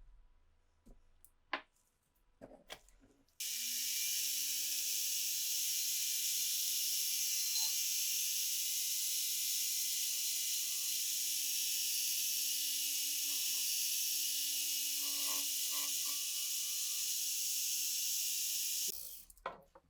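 A few light clicks of handling, then a small power tool starts about three seconds in, its hum rising briefly in pitch as it spins up. It runs steadily with a strong high hiss for about fifteen seconds and stops near the end.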